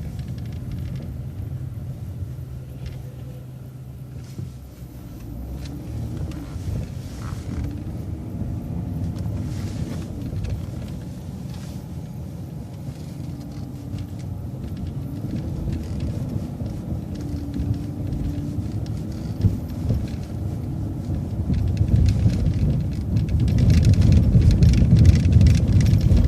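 City transit bus driving, heard from on board: engine and road rumble, with a steady low hum for the first few seconds, then engine tones shifting in pitch as it pulls away, growing louder near the end.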